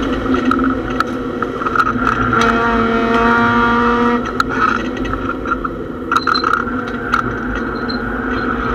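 Mazda MX-6 race car's engine running hard at speed, heard from inside the stripped-out cabin over road and wind noise, with scattered sharp clicks and rattles.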